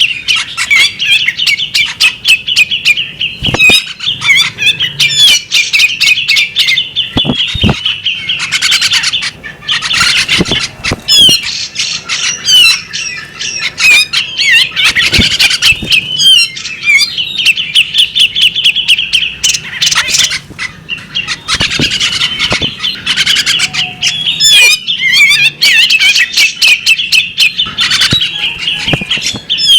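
Female magpie-robin calling without a break: a dense, rapid stream of high chirps and twitters mixed with harsh squawk notes and sharp clicking notes.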